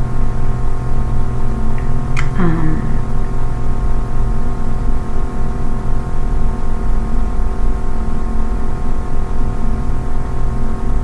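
A steady background hum made of several unchanging tones over a low noise floor. A brief murmur from the speaker's voice about two seconds in.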